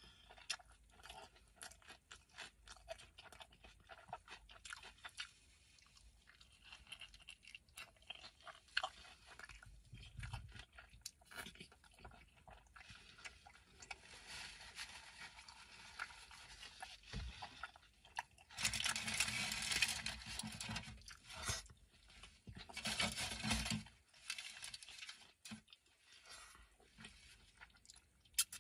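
Close-up eating sounds of a person chewing and biting into a burrito: soft wet clicks and smacks throughout. About two-thirds of the way through come two louder noisy stretches of a couple of seconds each.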